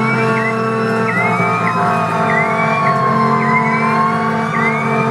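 Fire engine siren sounding on an emergency response: a short rising sweep repeats about once every second and a quarter, while a slower second tone glides down and back up, over a steady low hum.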